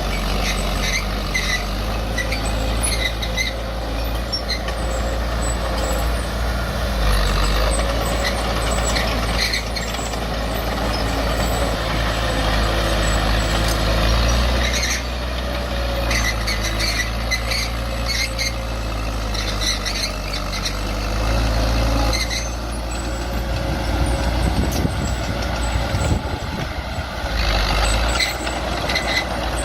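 Heavy diesel earthmoving machinery running steadily under load, with repeated short metallic squeaks and clanks over the engine.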